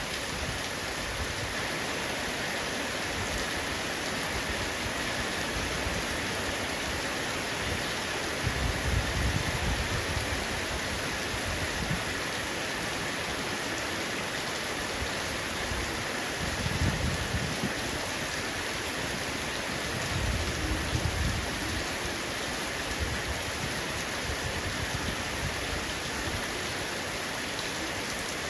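Heavy rain falling steadily on a roof, with three brief low rumbles rising out of it.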